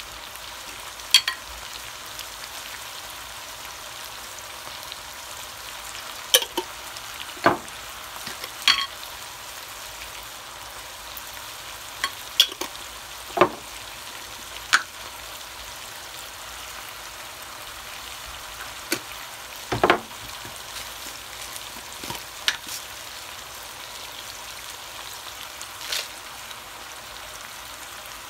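Chicken drumsticks and onions frying in hot oil in a pot: a steady sizzle with scattered sharp pops and crackles, about a dozen of them, irregularly spaced.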